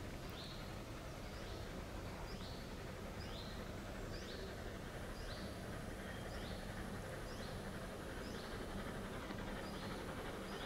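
A bird calling over and over: short high chirps that slide downward, more than once a second, over a steady low rumble.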